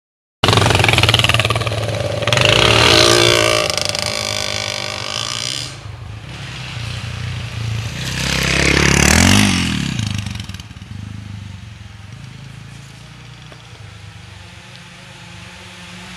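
Off-road dirt bike engine revving hard. It swells to a peak with the pitch rising then falling about nine seconds in, then fades to a distant steady drone.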